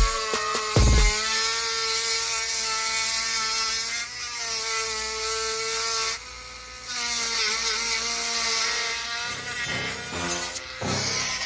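Small power tool running with a steady whine and hiss. It stops briefly about six seconds in, then starts again with small changes in pitch.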